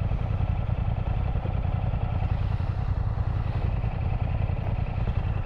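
Motorcycle engine idling steadily, a low, even running sound with no change in revs.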